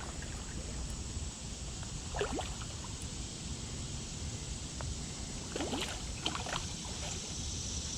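Small spring creek running steadily, with a few short, faint sounds about two seconds in and again around six seconds.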